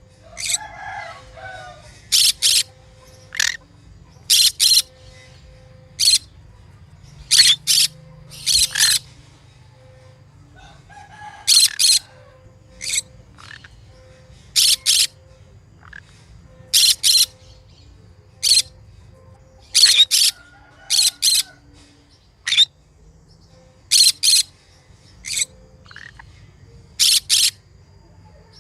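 Green conure giving shrill, short screeching calls, often in quick pairs, repeated every second or two, with softer chattering between them.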